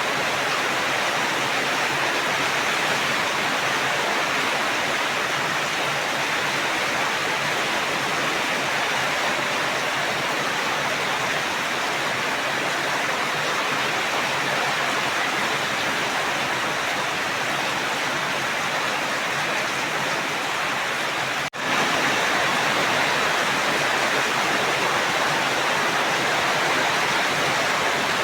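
Steady heavy rain, an even rushing hiss with no break in it except a momentary dropout about three quarters of the way through.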